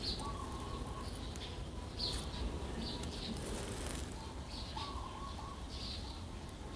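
Birds calling: short high chirps about once a second, and a held mid-pitched note that comes twice, about five seconds apart.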